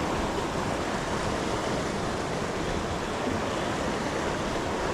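Steady wash of ocean waves on the shoreline.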